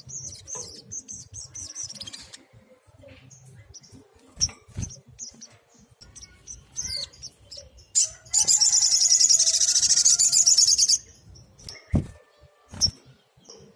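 Sunbird singing: high, thin chirps and twitters, then a loud, rapid trill lasting about three seconds past the middle. Two sharp clicks come near the end.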